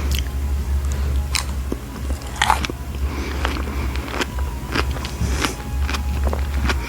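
Close-miked biting into and chewing fresh strawberries, with scattered wet crunches and mouth clicks, over a steady low hum.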